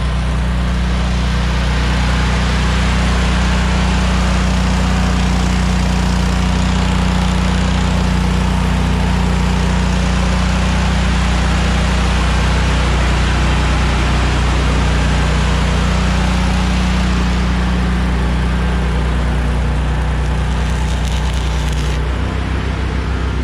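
Arc welding crackling continuously over a steadily running engine. The engine note changes near the end.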